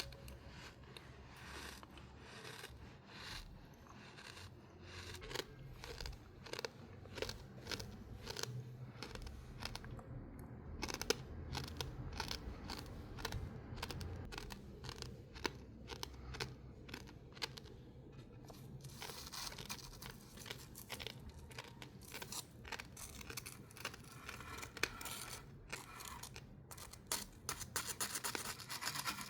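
Crunchy sand being cut and crushed: a quick run of short crunches and scrapes, denser over the last third.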